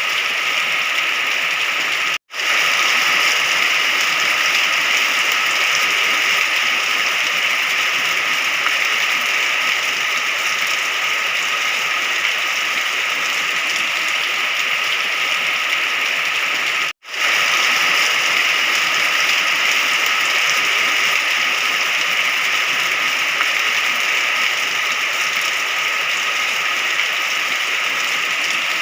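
Steady rain, an even hiss with no thunder, that cuts out for an instant twice: about two seconds in and again about fifteen seconds later.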